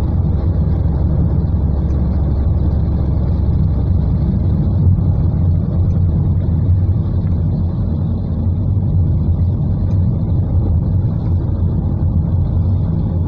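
Steady low rumble of a car driving in heavy rain, heard from inside the cabin: engine and tyres on the wet road with an even hiss of rain and spray over it.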